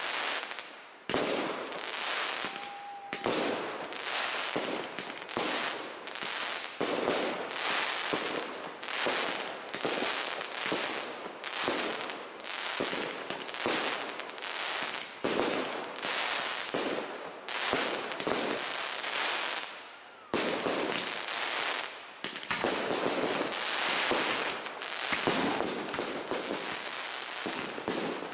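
Large professional aerial firework shells (65–150 mm) bursting one after another, about one a second with no pause, each bang trailing off into the next.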